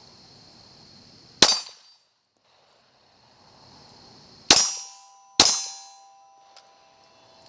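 Three gunshots, about a second and a half in and then two close together about three seconds later, each echoing off. A metallic ring lingers after the last two.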